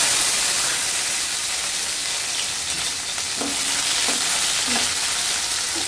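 Chopped tomatoes sizzling steadily in hot oil in a stainless-steel kadai, loudest just after they go in. A spatula stirs them, scraping the pan a few times.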